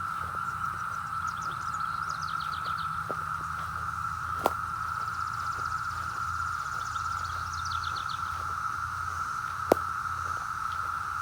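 A dense chorus of Brood X periodical cicadas, one steady unbroken droning whine, described as deafening. Brief bird chirps sound over it, and two sharp clicks come about four and a half and nine and a half seconds in.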